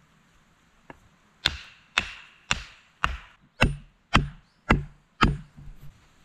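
A hand tool striking wood in a steady series of chops, about two a second. After a faint first tap come eight sharp blows, and the later ones land with a heavier thud.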